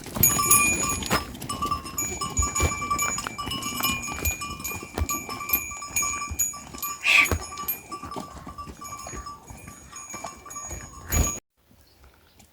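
Bells worn by livestock, goats or sheep, clinking and ringing on and off as the animals move, with a scatter of small knocks. The sound cuts off suddenly near the end.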